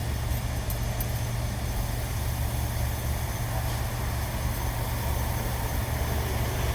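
Steady low mechanical drone, like running machinery or an engine idling.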